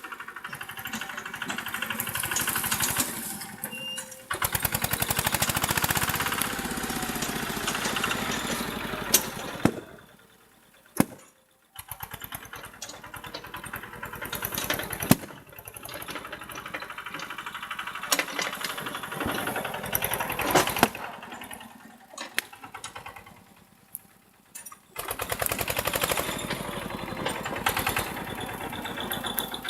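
Tractor engine running with a fast, even firing beat, revving up and dropping back several times, with a few sharp knocks. The sound falls away almost to nothing twice, briefly each time.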